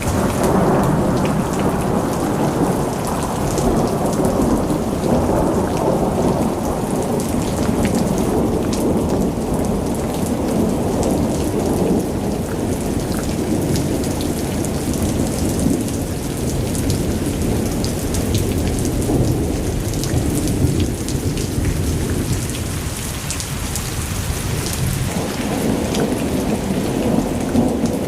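Heavy rain and rushing floodwater: a loud, dense, steady wash of water noise with a deep low rumble and fine crackling patter on top. It eases a little shortly before the end, then swells again.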